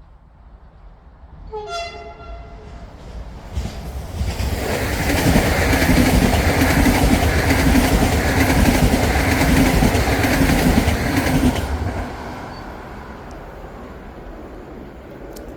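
Train horn sounds one short blast about two seconds in, then the train passes by: the rumble of wheels on rails grows loud with a regular clatter for several seconds and fades away after about twelve seconds.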